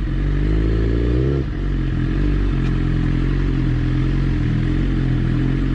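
Motorcycle engine running under the rider, its revs rising for about a second and a half, then dropping and holding at a steady pitch.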